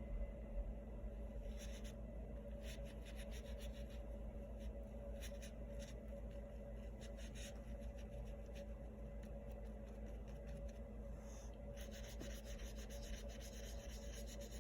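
Paintbrush strokes on paper: soft, scratchy swishes coming irregularly, over a steady low hum.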